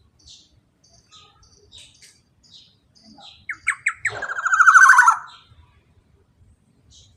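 Black-naped oriole (kepodang) giving three short, sharp notes and then a loud, fast rattling trill lasting about a second, its long 'ropel' roll. Faint, high chirps repeat at intervals around it.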